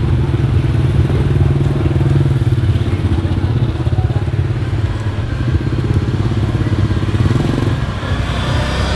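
Small engine running steadily, with a fast even pulse. It eases off briefly near the end, then picks up again.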